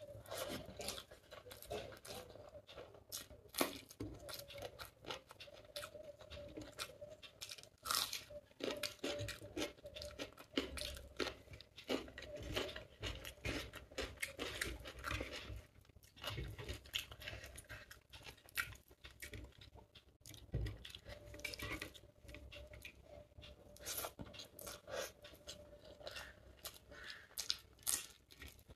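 Chewing and mouth sounds of someone eating chicken biryani by hand, with many small irregular clicks and smacks.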